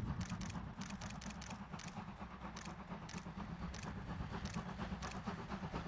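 A train rolling past with a steady low rumble, its wheels clicking over rail joints in quick pairs. The clicks space out gradually, as the cars roll by more slowly.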